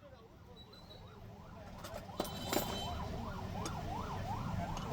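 An electronic siren in a fast up-and-down yelp, about three sweeps a second, growing louder from about two seconds in. A few sharp knocks come just as it swells.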